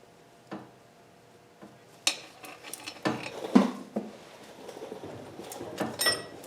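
Metal hand tools and engine parts knocking and clinking together in a few separate clanks and rattles, the loudest about halfway through, with a short metallic ring near the end.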